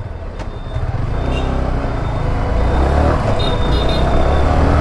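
Motorcycle getting under way in city traffic: a steady low engine rumble that grows louder over the first second and holds, with road and wind noise.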